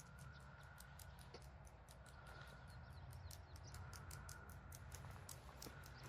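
Faint outdoor ambience: a quick, irregular high ticking, several clicks a second, over a low steady rumble.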